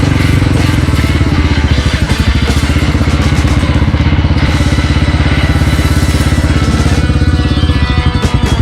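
Motorcycle engine running steadily under way, a fast, even pulsing drone.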